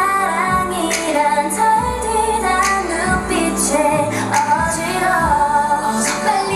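K-pop dance-pop song with female group vocals singing over a steady beat of kick drum, bass and hi-hat.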